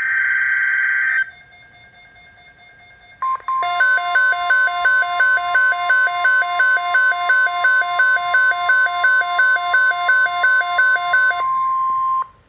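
NOAA Weather Radio alert sequence. A harsh electronic data burst, the tail of a SAME alert header, ends about a second in. After a short lull a steady pure alert tone near 1 kHz starts, with a rapid pulsing electronic beep of about two to three beeps a second laid over it. The beeping stops shortly before the steady tone cuts off near the end.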